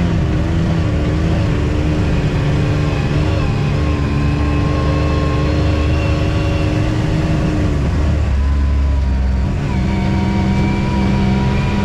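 An off-road ATV or side-by-side engine runs steadily under way. Its note dips about eight seconds in, then picks up again near ten seconds.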